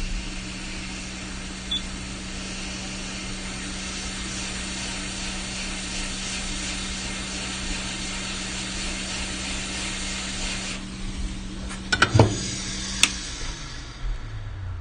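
Hot air rework station blowing to soften chip adhesive: a steady hiss of air over a low fan hum. About eleven seconds in the airflow stops, a few knocks and a sharp click follow, and the hum winds down with falling pitch.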